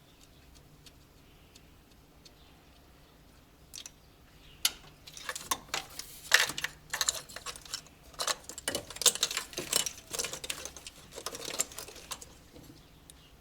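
Hand tools clicking and clinking against metal engine parts: faint ticks at first, then from about five seconds in a dense, irregular run of sharp clicks and rattles.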